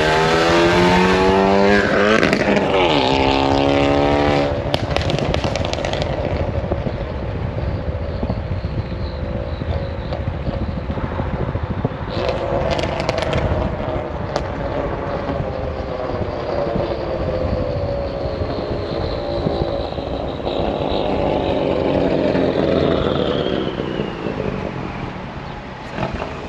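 2017 Hyundai Elantra Sport's 1.6-litre turbocharged four-cylinder engine on a hard pull. The revs climb, drop at a shift about two seconds in, and climb again before the throttle eases after about five seconds. A high turbo whistle sits over the engine and falls in pitch near the end.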